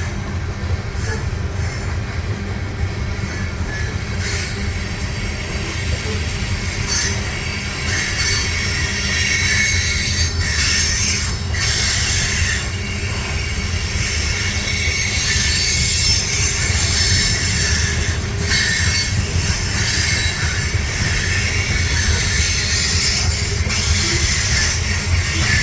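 Freight train cars rolling past slowly, their steel wheels squealing against the rails over a steady low rumble, with a few sharp clicks.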